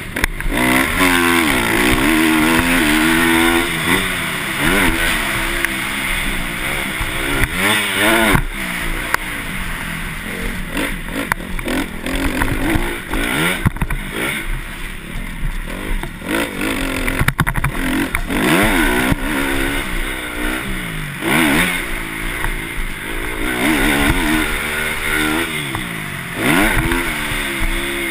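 Motocross bike engines revving high and dropping back over and over as they are ridden hard around a dirt track.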